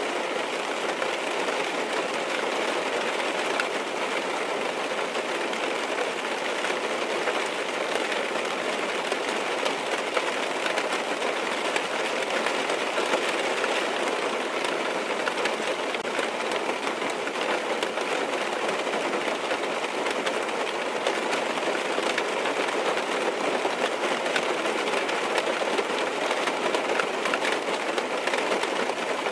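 Steady rain falling on a car's roof and glass, heard from inside the car: an even patter of many small drops that holds at one level throughout.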